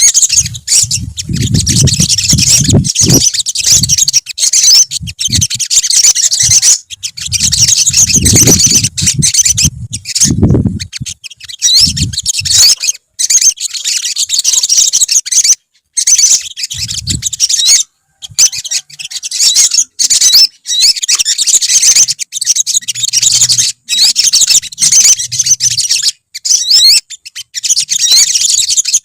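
Several olive-backed sunbirds chirping and twittering at once in a dense, unbroken stream of rapid high-pitched notes, with brief low rumbles now and then in the first half.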